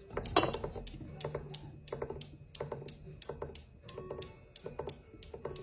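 A steady run of sharp clicks or taps, about three a second, over a faint low hum.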